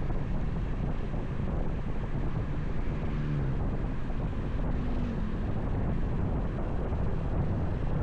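Wind rushing over the microphone of a moving motorcycle, a steady low rumble with the engine's note briefly showing through about three and five seconds in.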